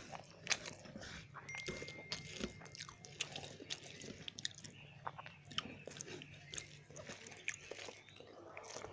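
Close-miked mouth sounds of a person chewing a mouthful of rice and fish curry: irregular smacks and clicks of lips and tongue.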